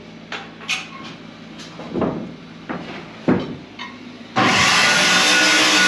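Scattered knocks and taps of roof framing work on wood. Then, about four and a half seconds in, a loud steady rushing noise starts suddenly and cuts off abruptly.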